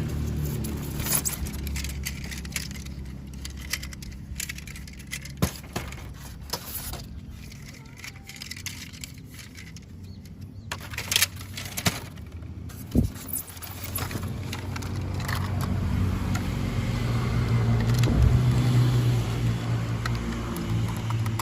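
Electric model train running on its track: a low motor and wheel hum that fades away and then grows louder again near the end, with scattered light clicks and rattles.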